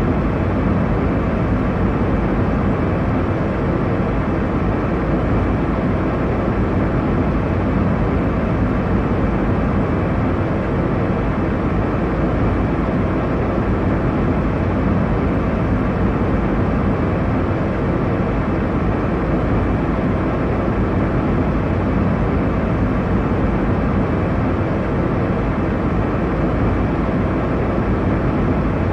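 Steady airliner cabin noise in flight: a constant low rumble and rush of engine and airflow noise with no changes or events.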